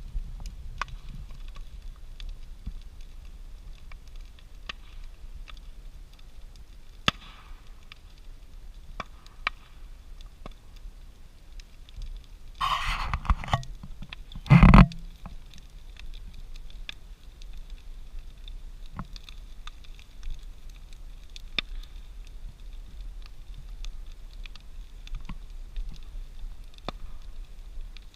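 Large bonfire of a brush pile burning, with scattered sharp crackles and pops over a low rumble. About halfway through there is a brief burst of louder noise, then a heavy thump.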